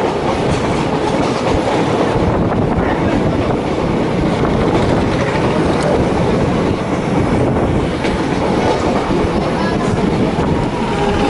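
A DEMU (diesel-electric multiple unit) train running along the track: a loud, steady rumble of wheels and running gear.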